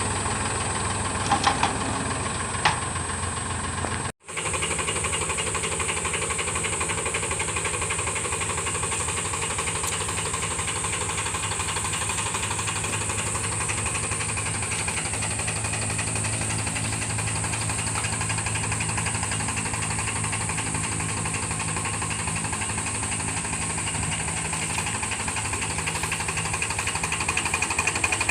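Tractor engine running steadily, with a couple of sharp clicks in the first few seconds and a brief cut-out about four seconds in.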